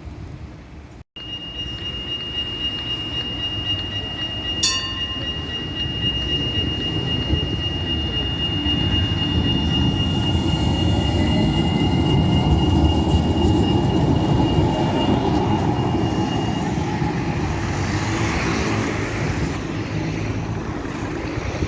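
A tram running on its rails: a rumble that grows louder and then eases off, under a steady high-pitched whine that stops a few seconds before the end. There is one sharp click about four seconds in.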